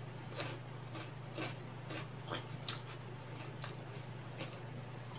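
Close-miked chewing and mouth sounds of a person eating by hand: short wet smacks and clicks, roughly one or two a second and uneven, over a steady low hum.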